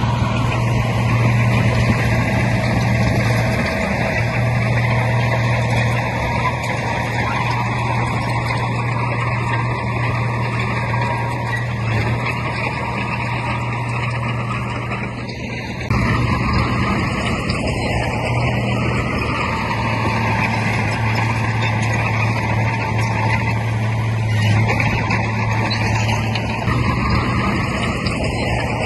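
Heavy diesel earthmoving machinery running steadily under load, with a strong low engine hum; it gets abruptly louder about halfway through.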